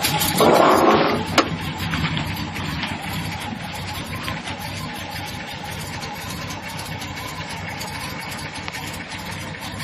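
Square-body pickup truck's engine idling roughly, the complaint of the owner. A brief louder rush of noise comes about half a second in, followed by a sharp click, and then the engine runs on steadily.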